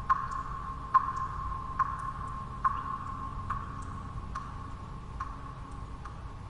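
Water drops falling one at a time at an even pace, a little less than one a second, with fainter small ticks between them, over a steady background of white noise.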